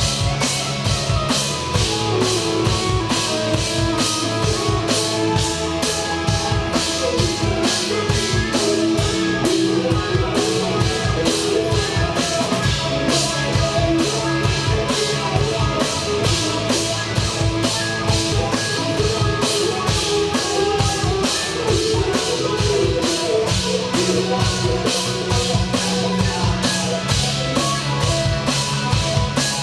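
Live rock band playing a song, with the drum kit loud and close over bass and electric guitar; the drums keep a steady, driving beat throughout.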